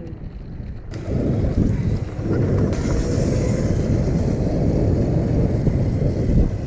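Wind buffeting the microphone while riding: a loud, rough rushing rumble with no clear engine note.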